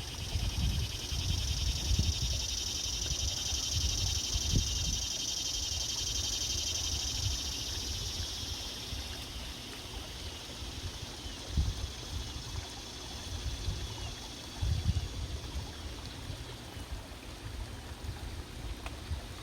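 Outdoor ambience: a low, gusty rumble with a high, even buzzing chorus over it that fades out about halfway through, and a few soft knocks later on.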